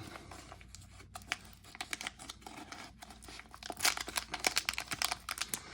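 Foil wrapper of a 2024 Topps baseball card pack being torn open and crinkled by hand: a run of crackles and tears that grows busier and louder in the last couple of seconds.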